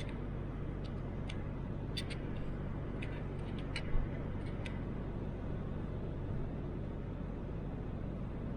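Toyota Land Cruiser 80 driving, a steady low engine and road rumble, with a few light clicks in the first half and a brief thump about four seconds in.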